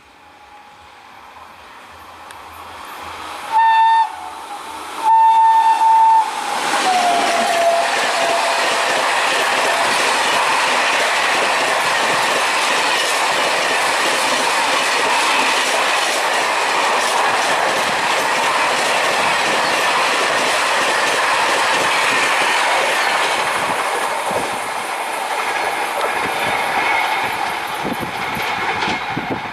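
Indian Railways express train approaching and passing at speed. Two horn blasts come about four and five seconds in, and the second falls in pitch as the train goes by. Then a long, loud, steady rush and clatter of wheels on track follows, easing slightly near the end.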